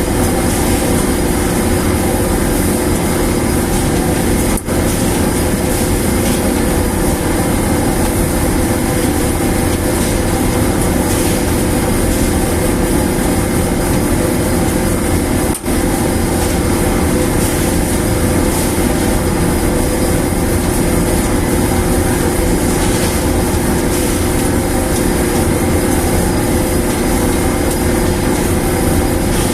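Newly installed dryer machine running steadily: a loud continuous mechanical drone with a constant hum, dipping for an instant twice.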